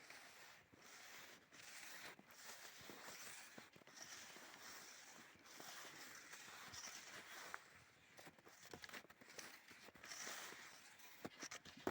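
Faint crunching and swishing of skis moving over snow, with a few light clicks near the end.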